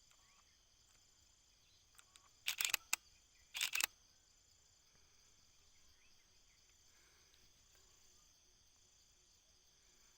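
Steady high-pitched chorus of insects. Two short bursts of sharp clicks about two and a half and three and a half seconds in are the loudest sounds.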